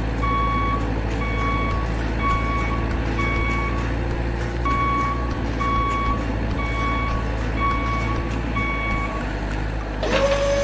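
Truck reversing alarm beeping about once a second, with a longer pause about halfway, over a steady low engine rumble. Near the end a new steady tone comes in.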